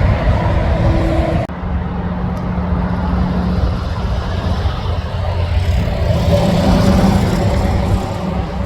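Heavy truck's diesel engine running loud and low. It breaks off abruptly in an edit about a second and a half in, then picks up again with the engine note rising around two-thirds of the way through as the truck pulls.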